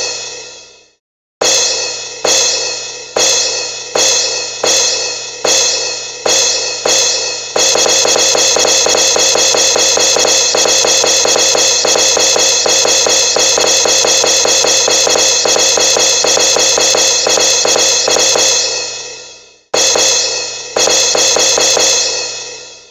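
Ringing metallic percussion, loud: single strikes about every 0.8 s, each dying away, then a fast continuous roll lasting about eleven seconds, then two more strikes that ring out near the end.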